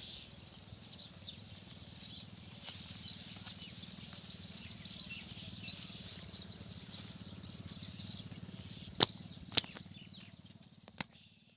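Small birds chirping over a steady low hum, with three sharp clicks near the end that are the loudest sounds.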